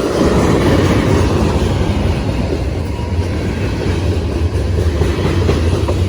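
Train passing close by: a loud, steady rumble of wheels on the rails, with short clicks of wheels over rail joints near the end.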